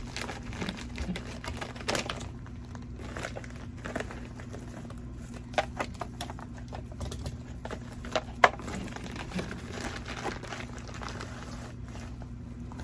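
Packaging being opened by hand: crinkling and rustling with scattered taps, and a few sharper clicks partway through.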